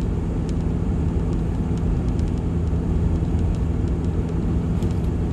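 Steady engine drone and road rumble heard from inside a moving vehicle's cab, with a few faint ticks.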